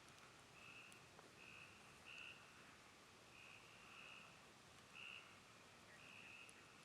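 Faint chorus of frogs calling: short buzzy trills, each about half a second long, repeating from several callers about once a second. A few faint crackles from the campfire come in between.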